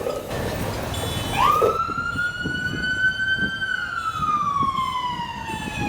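Mechanical wind-up siren: its wail climbs quickly about a second and a half in, holds, then slowly winds down in pitch before climbing again right at the end.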